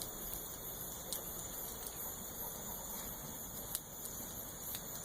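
Bonfire crackling: a steady low hiss broken by a few sharp pops.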